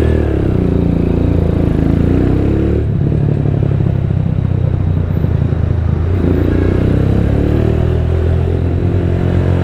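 Exhaust of a 250cc Rusi Diablo motorcycle through a custom-made Orion muffler with no silencer insert, running under way. The engine note climbs, drops about three seconds in, and climbs again after about six seconds, as the bike accelerates and shifts.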